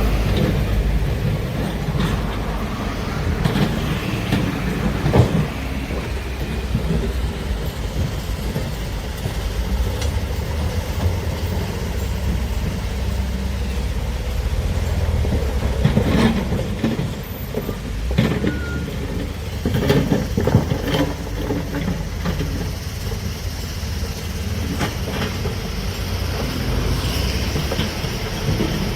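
Heavy excavator at work: a steady low diesel engine rumble, with sharp clanks and knocks every few seconds.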